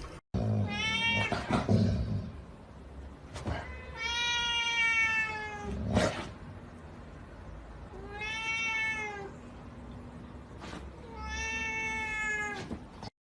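A cat meowing four times: long, drawn-out meows of one to two seconds each, with a few light knocks in between.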